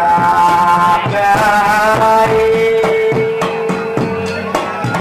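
Javanese gamelan music accompanying a jathilan horse dance: hand-drum strokes keep a steady beat under a melody line of long held notes, one held for about two seconds in the middle.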